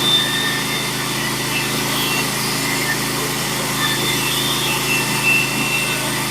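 Norwood HD36v2 portable bandsaw mill running steadily, its engine driving the band blade through a pitch pine log, with a faint high whine coming and going above the engine note.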